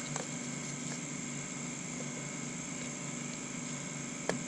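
Steady electrical hum and hiss in a small room, with a sharp click just after the start and another near the end.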